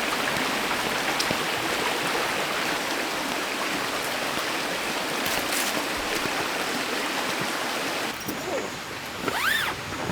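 Mountain stream water rushing steadily. About eight seconds in, the sound drops to a quieter background, and a short high chirp rises and falls shortly before the end.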